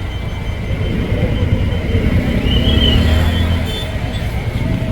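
Street traffic: a motor vehicle's engine rumbling close by, growing louder from about one and a half seconds in and fading near the end.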